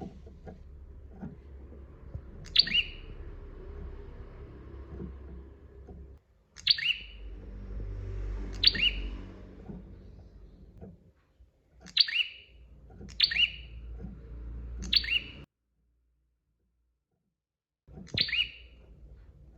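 Prinia (prenjak) giving short, sharp, high chirps, about seven in all, each a quick downward-sweeping note, spaced irregularly a second or more apart. A low background rumble runs under the calls and cuts out for about two seconds near the end.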